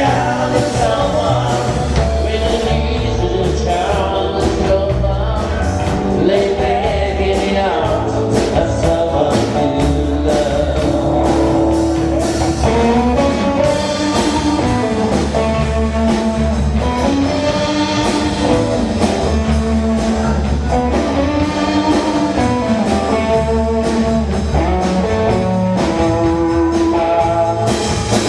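Live rock band playing with a singer: vocals over guitar, bass and drums, steady and loud.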